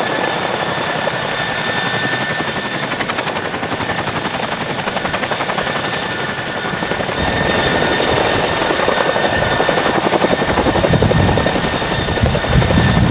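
Boeing CH-47 Chinook tandem-rotor helicopter in flight: rapid rotor blade chop over a steady turbine whine. It grows louder and deeper from about halfway through, the loudest near the end.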